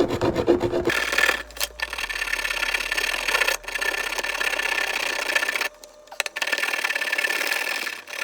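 Saw blade of a knife sawing through a pipe by hand, rasping back-and-forth strokes with brief pauses.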